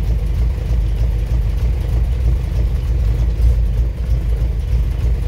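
UAZ 469's four-cylinder petrol engine idling steadily, a low even running sound.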